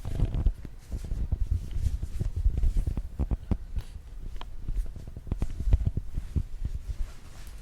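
Train running between stations, heard from inside the carriage: a low rumble broken by a busy, irregular clatter of knocks from the wheels passing over rail joints.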